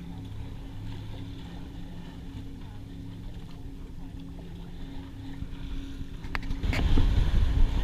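Hunter 27 sailboat's auxiliary engine running steadily while motoring, an even low hum. Wind starts buffeting the microphone about six and a half seconds in and becomes the loudest sound, with a couple of brief knocks.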